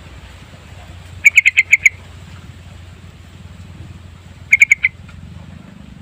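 Sooty-headed bulbul calling: a quick run of about six notes a second in, then a shorter run of four notes about three seconds later, over a steady low background noise.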